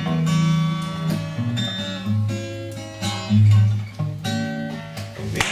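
Acoustic guitar strumming chords to accompany a singer-songwriter's song, with a new chord struck about once a second.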